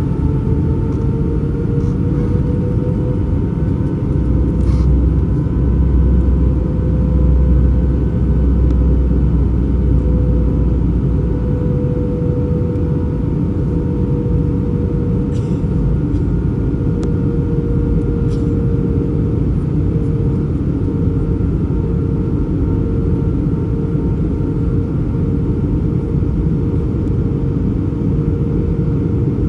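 Airbus A320 jet engines and airflow heard from inside the cabin in flight: a steady loud drone with a whining engine tone that rises slightly in pitch in the first few seconds. A deeper rumble swells from about 4 to 12 seconds in.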